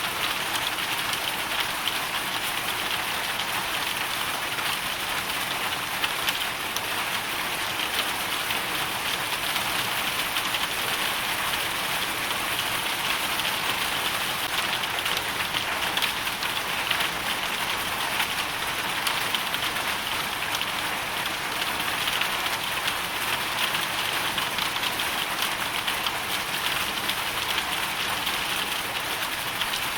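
Hailstorm: a steady, dense pattering of hailstones falling on a surface, made of countless small ticks without let-up.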